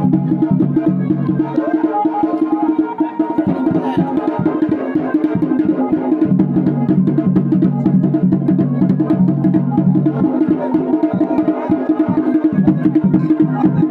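Garhwali wedding music: dhol and damau drums played in a fast, dense rhythm, with a steady droning melody over them.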